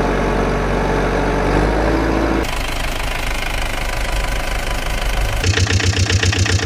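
Heavy engine sounds in three abruptly cut sections: a dense running note that rises slowly in pitch, then a different steady engine note, then from about two-thirds of the way in a rhythmic knocking idle at about six beats a second, like a diesel truck engine.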